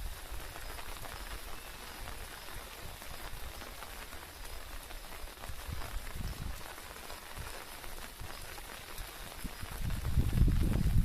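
Rain falling steadily, an even patter, with a few low rumbling thumps near the end.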